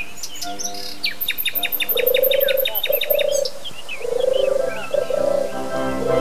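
Small birds chirping, with a fast trill of repeated high notes in the first half and a lower wavering tone. Orchestral music sits faintly under them and swells up near the end.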